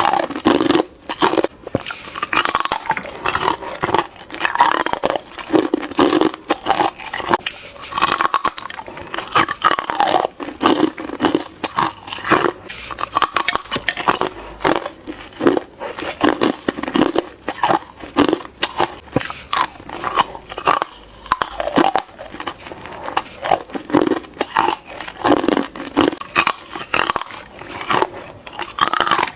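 Hard ice being bitten over and over: sharp, crackling crunches, with a fresh bite every second or two.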